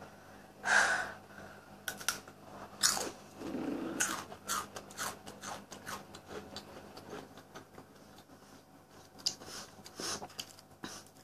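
A crunchy breadstick being bitten and chewed close to the microphone: a run of short, crisp crackles, densest in the first few seconds and thinning out toward the end.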